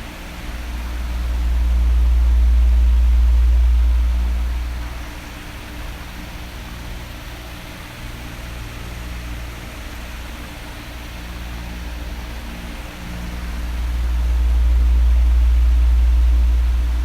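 Electric bedroom fan running with a steady whooshing hiss and a faint motor hum. Twice, starting about a second in and again about thirteen seconds in, a deep rumble swells up over a couple of seconds and fades as the oscillating fan sweeps its airflow across the microphone.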